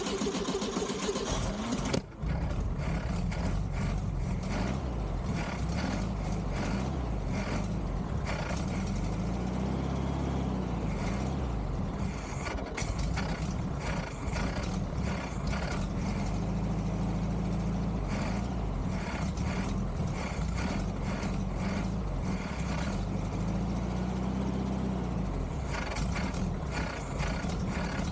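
1969 Volkswagen Beetle's air-cooled flat-four engine running steadily, with a brief stumble about two seconds in. The engine is being brought back after years of sitting, fed with gas from a makeshift gravity bottle.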